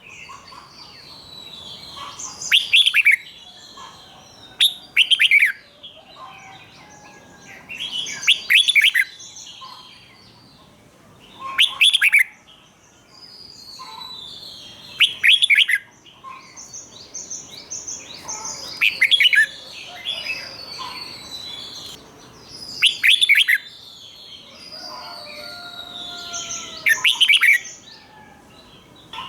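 Red-whiskered bulbul singing: loud, quick whistled phrases repeated about every three to four seconds, with softer chirps and twitters in between.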